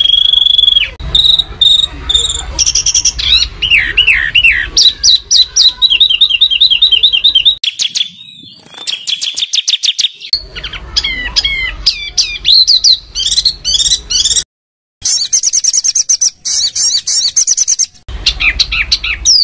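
Songbird song in loud, rapid-fire phrases: fast runs of repeated whistled notes, chattering trills and steep downward sweeps, switching abruptly from one phrase type to another, with a brief cut to silence about three-quarters of the way through. This is harsh, dense masteran song of the kind played to contest songbirds such as magpie robins so they copy it.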